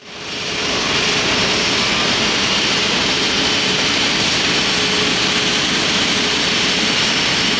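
Jet airliner engines running steadily: a loud, even rush with a faint steady whine, fading in at the start.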